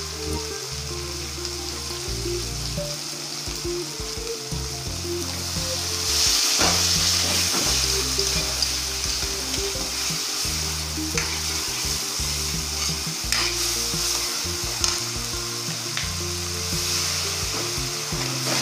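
Chopped tomatoes, onions and garlic sizzling in hot oil in a metal wok. A metal spatula scrapes and knocks against the pan as the food is stirred. The sizzle grows louder about six seconds in.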